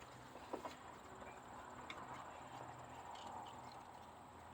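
Faint background of insects chirping steadily, with a few light clicks, about half a second in and again about two seconds in, from wiring and connectors being handled.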